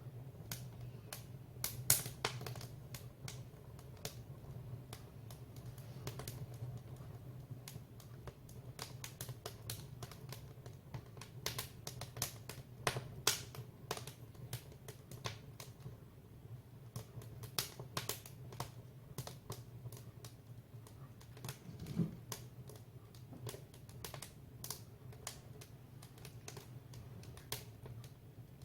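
Firewood burning in a wood stove, crackling and popping in irregular sharp snaps over a steady low hum, with the loudest pops about two seconds in and near thirteen seconds.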